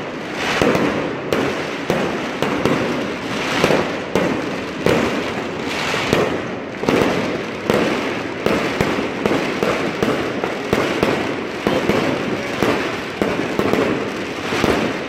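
Many fireworks and firecrackers going off at once across a city: a continuous din of crackling and bangs, with sharp reports every second or so and no pause.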